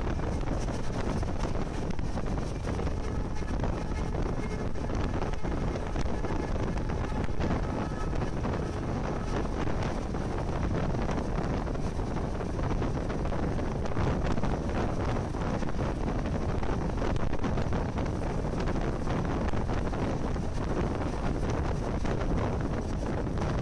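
Steady wind buffeting the microphone over the rumble of a moving train, heard from an open window or door of the carriage.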